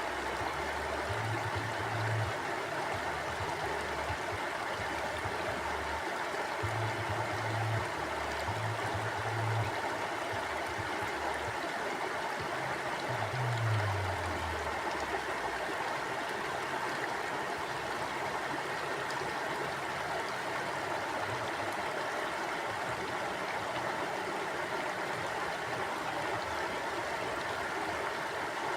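Mountain stream flowing steadily, an even rush of water. A few brief low rumbles sit underneath, the last one, about halfway through, falling in pitch.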